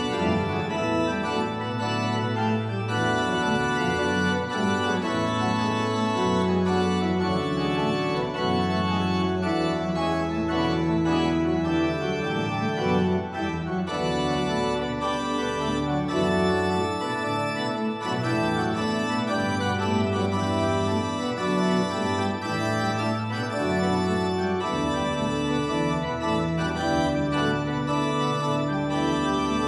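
Church organ playing the closing postlude: full sustained chords over a low held bass line, the harmony changing every second or two.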